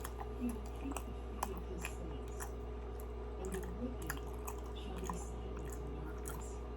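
Close-up mouth sounds of someone chewing a soft Krispy Kreme doughnut, with small wet clicks and squishes scattered throughout.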